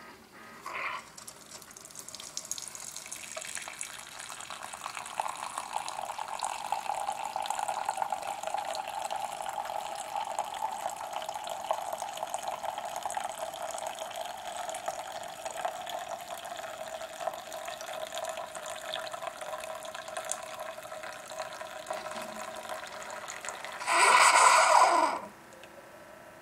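Keurig coffee maker brewing: a steady stream of hot coffee pouring into a mug for about twenty seconds. Near the end comes a louder sputtering burst of a second or so as the brew cycle finishes.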